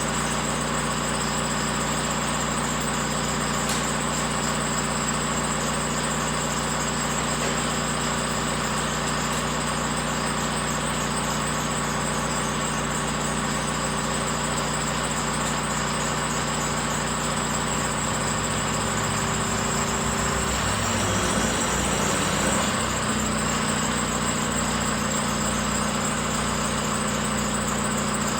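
An engine running steadily at idle, its pitch shifting briefly about two-thirds of the way through before it settles again.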